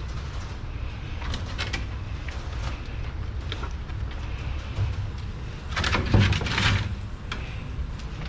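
Steady low hum with short bursts of hissing, rubbing noise, the loudest about six seconds in, as a dog is washed and shampooed at a wash station.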